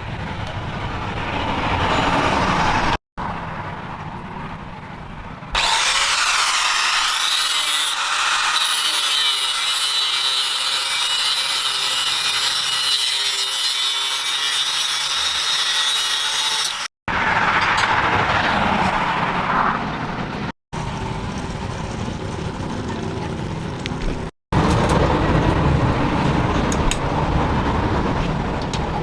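Metal being worked with an abrasive tool, grinding or sawing, in several short spliced clips. The longest is a steady, bright, hissing grind lasting about eleven seconds from about five seconds in.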